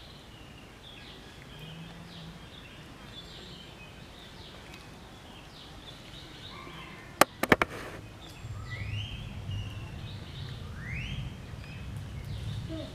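Outdoor ambience with birds chirping: short rising calls throughout. About seven seconds in comes a quick run of four sharp clicks, the loudest sound, followed by a low rumble.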